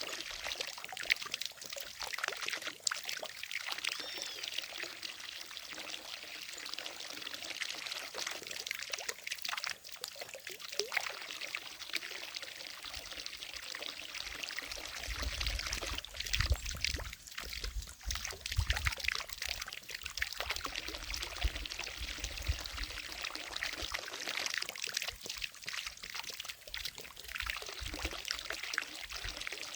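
Water falling from a fountain into a lake, a continuous pouring and splashing with many small splashes.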